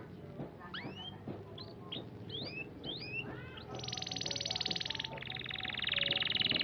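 Domestic canary singing: a string of short upswept whistled notes, then, about halfway through, a fast high rolling trill that shifts to a slightly lower trill.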